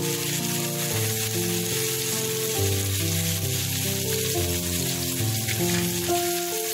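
Chicken breasts sizzling in a grill pan, a steady hiss, under background music with a changing melody.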